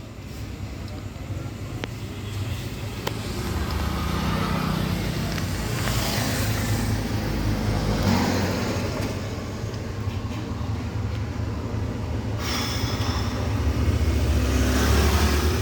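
Car on the move: a steady engine and road-noise rumble that swells as it speeds up, loudest near the end.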